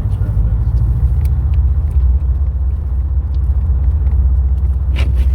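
Subaru WRX STI driving: a steady low rumble of the engine and road noise, with a few faint ticks over it.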